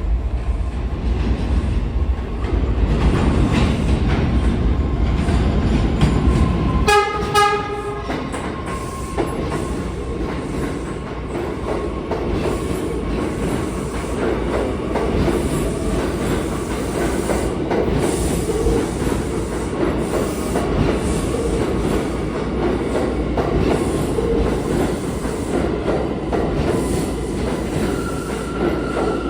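R179 subway train arriving at a station: a loud rumble of wheels on rail, a horn blast of about a second roughly seven seconds in, then steady rolling and clattering with a thin high whine as it slows, and a higher squeal coming in near the end.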